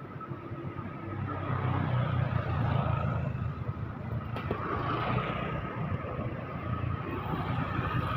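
Road vehicles passing close by: engine rumble and tyre noise that swell and fade as they go past, about three times.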